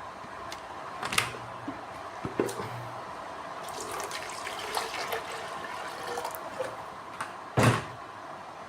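Water being poured into the reservoir of an HHO generator, a steady trickling fill that raises its float level indicator, with a couple of knocks from handling the unit, one about a second in and a louder one near the end.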